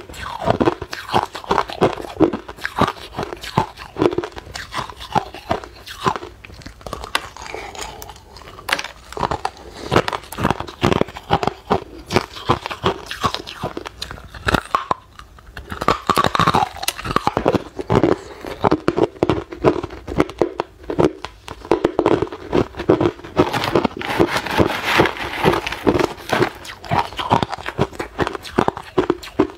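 A person biting and chewing hard clear ice close to the microphone: a dense, irregular run of sharp crunches and cracks.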